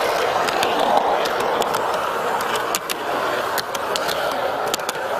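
Model garden-railway train rolling along the track: a steady rolling rumble of wheels and drive with irregular sharp clicks.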